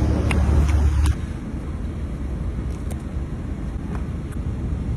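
Motor vehicle noise: a heavy low rumble that drops abruptly about a second in to a quieter, steady low hum, with a few faint clicks.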